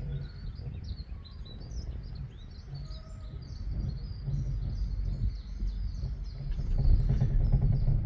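Small birds chirping over and over in quick high notes, with a low rumble that grows louder in the second half.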